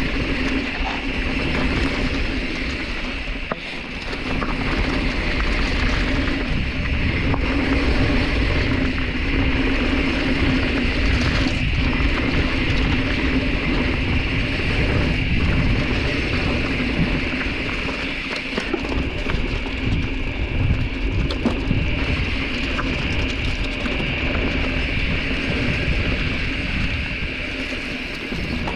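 Mountain bike riding down a rough dirt trail: tyres rumbling over the ground, with rattles and knocks as it goes over bumps and a steady buzz throughout.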